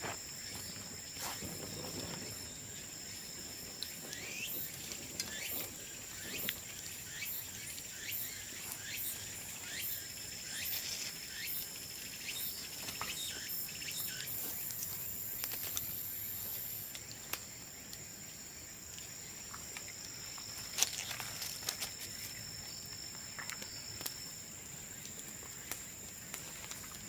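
Bonfire of cut bamboo crackling with scattered sharp pops and a brief high hiss about halfway through, over a steady high-pitched insect trill.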